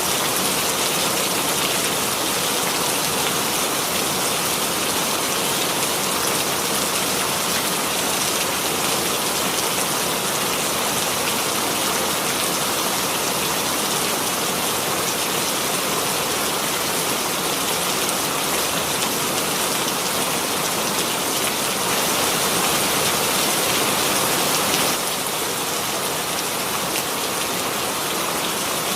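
Steady rainfall: a dense, even hiss of rain falling on a surface, with a slight drop in loudness near the end.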